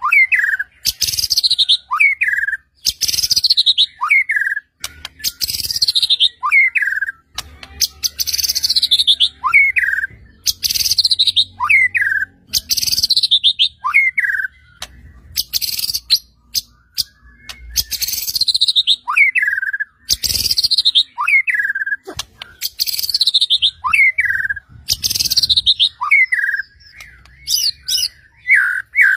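White-rumped shama (murai batu) singing loudly and without pause, repeating one short phrase about every one and a half to two seconds. Each phrase is a quick run of high notes sliding downward and ends in a clear falling slur. This is the steady, in-form 'gacor' song used as a lure to set other shamas singing.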